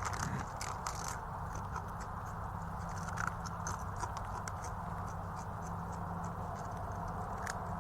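Crunching of kettle chips and crinkling of their bag as something eats them: irregular small crackling clicks, busiest in the first second and then scattered, over a steady low hum.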